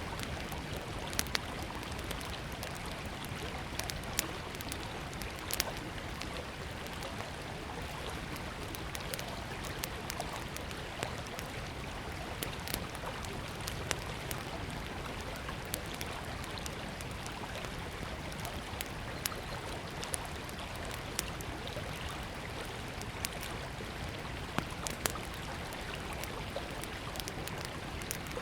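Small wood fire crackling with irregular sharp pops over the steady rushing of a river.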